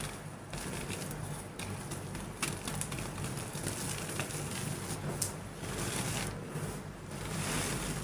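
Soft, buttery chalk being crushed and crumbled, with many small crackles and cracks and a longer gritty rustle near the end. A low steady hum runs underneath.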